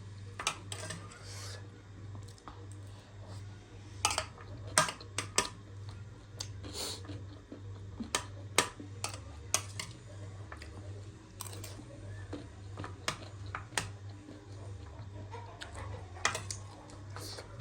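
Crunchy pani puri shells cracking and being chewed close to the microphone, as a string of sharp crackles at irregular intervals, over a steady low hum.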